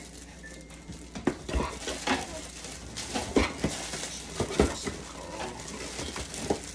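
Irregular clicks, knocks and clatter of the juicer's parts and packaging being handled and set down on a table, about a dozen light impacts.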